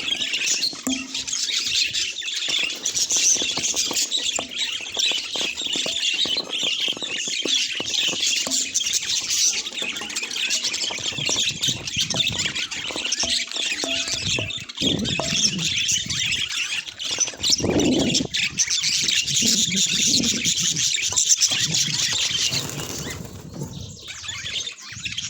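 A flock of budgerigars chattering and warbling continuously, many birds at once in dense high-pitched twittering, with a few lower, noisier bursts in the middle. The chatter eases briefly near the end.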